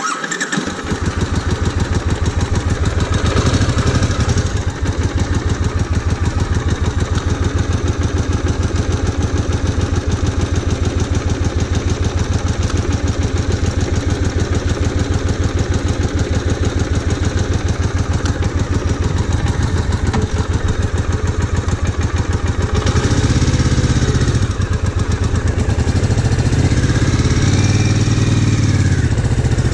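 Triumph Bonneville America's parallel-twin engine running with a steady, even beat, blipped up and back down in two revs near the end.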